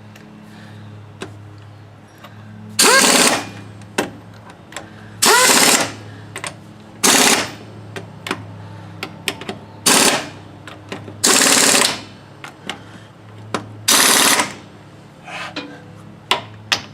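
Impact wrench hammering in six short bursts a second or two apart, tightening the front wheel's lug nuts, with small clicks between bursts over a steady low hum.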